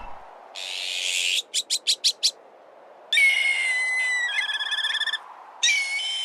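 An azure-winged magpie gives a harsh, rasping alarm call followed by five short rapid notes. A black kite then gives its call twice: a held whistle that breaks into a fast quavering trill. A faint steady hiss runs underneath.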